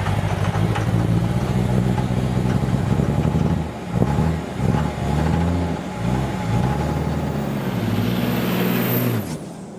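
A vehicle engine running and revving, its pitch rising and falling several times, with a brief dip about four seconds in. It cuts off shortly before the end.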